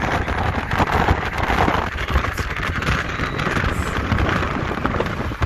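Car on the road: a steady rumble of tyres and wind rushing past, with wind buffeting the microphone.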